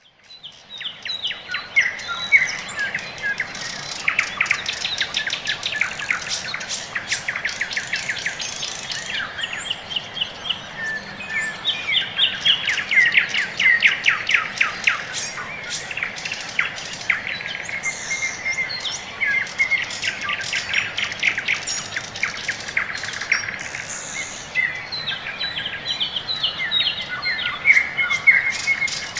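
Birds chirping and singing in quick, repeated trills and short chirps.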